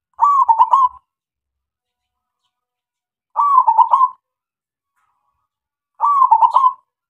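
Male zebra dove (local perkutut) singing its cooing song. Three phrases come about three seconds apart, each a quick run of short notes lasting under a second.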